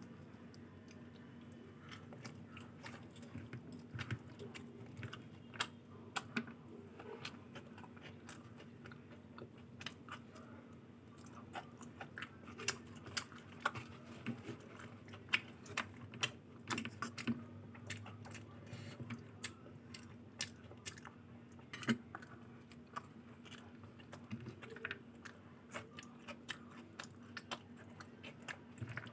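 A person chewing and biting food, with many irregular small clicks and occasional crunches from the mouth.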